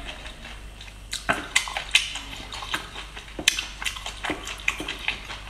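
Close-miked wet chewing and mouth smacking of a garlic-topped oyster, a run of sharp wet clicks and squelches beginning about a second in.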